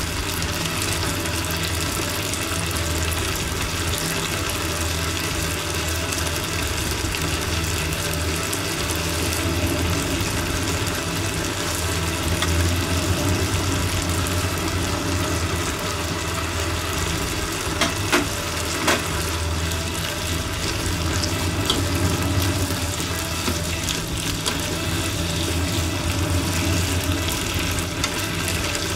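Green pepper strips sizzling and bubbling in seasoning liquid in a frying pan, a steady hiss as they cook down. Chopsticks click against the pan twice, about two-thirds of the way through.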